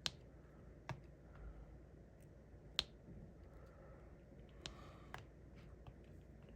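Faint, irregular clicks and taps of diamond painting: a drill pen picking up small resin drills and pressing them onto the sticky canvas. There are about five sharper clicks among softer ticks.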